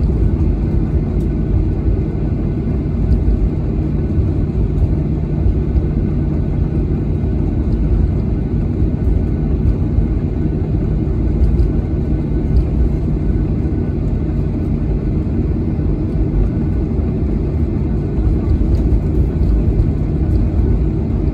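Boeing 737-800 heard from inside the passenger cabin: a steady, loud low rumble of its CFM56 jet engines and airflow.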